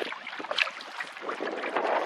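Water splashing and dripping around a paddled canoe: many small crackling splashes, growing denser about halfway through, with wind buffeting the microphone.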